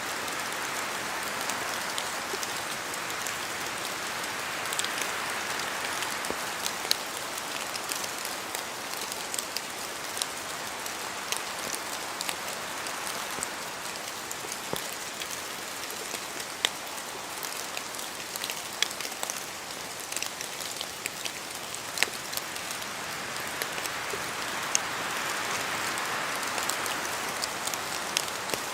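Steady rain falling in a spruce forest, with a soft rushing of wind that swells and eases, and scattered louder drips from the trees.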